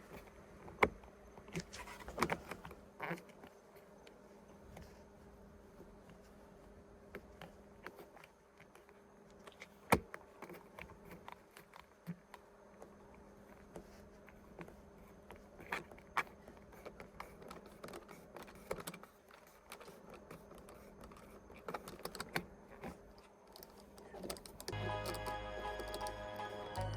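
Faint steady low hum with scattered small clicks and knocks, then music with a beat starting near the end.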